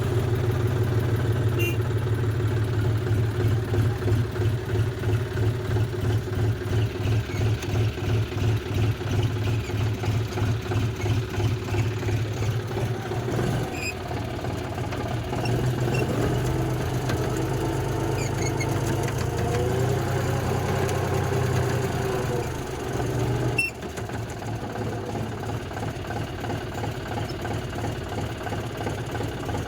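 A diesel tractor engine running with a steady chugging beat. Its note rises and falls for several seconds around the middle, then it settles a little quieter.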